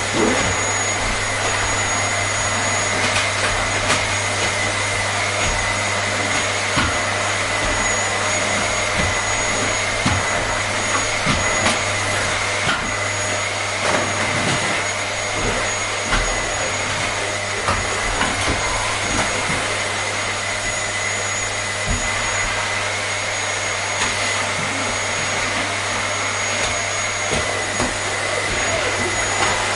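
Vacuum cleaner running steadily: a constant rushing noise with a steady high whine and a low hum, broken only by a few faint clicks.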